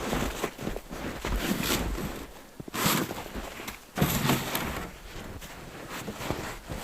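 Shovel digging and scraping packed snow out of a quinzee snow shelter, in irregular strokes about a second apart, over a low wind rumble.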